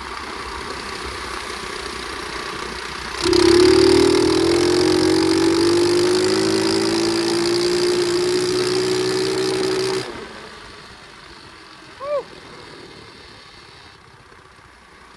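Pit bike's small single-cylinder engine running at low throttle, then opened up hard about three seconds in. It holds a loud, steady high-revving note for about seven seconds, then the throttle is shut and it drops back to a quiet low running sound.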